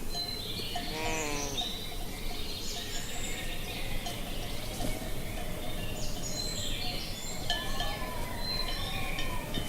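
A livestock animal bleats once, a short quavering call about a second in, over continual chirping birdsong. A fainter wavering call comes in near the end.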